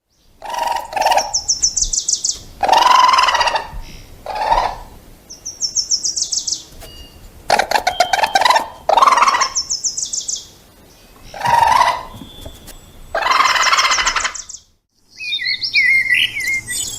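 A bird calling loudly and repeatedly, rapid high rattling trills that drop in pitch alternating with harsher, lower calls. Near the end, after a short gap, softer high chirping takes over.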